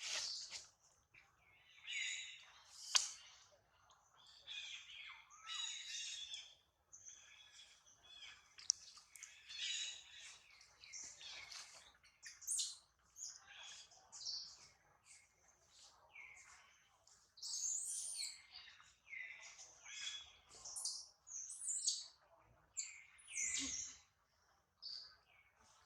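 Many short, high-pitched animal calls and chirps, some sliding in pitch, following one another with brief gaps.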